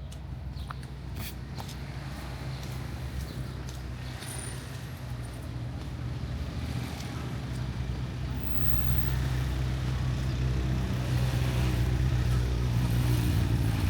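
A motor vehicle engine running with a steady low hum that grows gradually louder.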